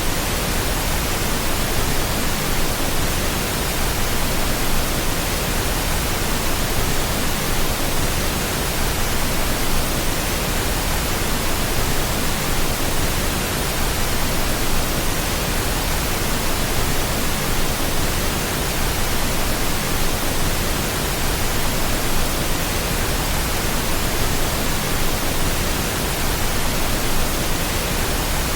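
Steady pink noise: an even, unchanging hiss across the whole range, played continuously as a sleep sound.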